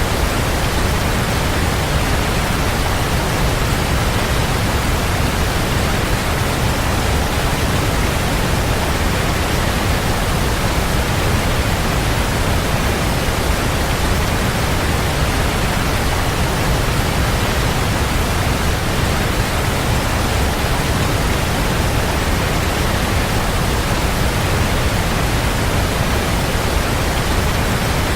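Waterfall: a loud, steady rush of falling water, deepest in the low end and unchanging throughout.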